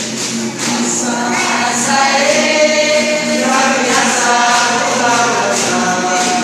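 A group of voices singing a chant together, holding long notes, over a steady percussion beat.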